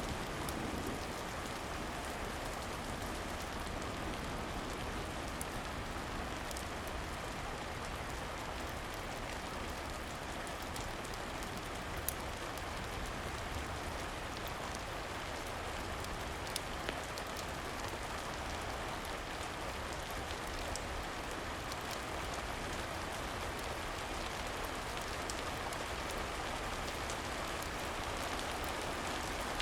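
Steady rain falling, an even hiss with no change, broken by a few isolated sharp clicks about twelve and seventeen seconds in.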